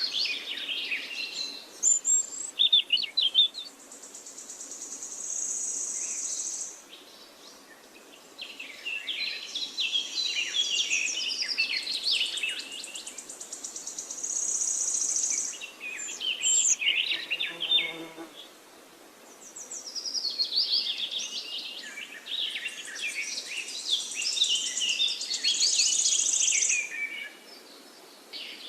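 Forest birds singing in overlapping chirping phrases. A high, steady buzzing comes and goes three times, each lasting two to three seconds.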